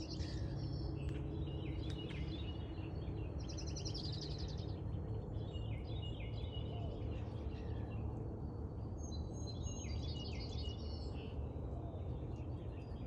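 Several songbirds chirping and singing, with repeated short calls and a few longer trilled phrases, over a steady low background rumble.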